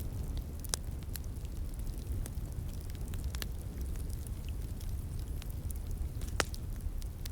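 A slowly burning fire crackling, with irregular sharp pops and one louder pop about six seconds in. A flowing stream's steady low rush runs underneath.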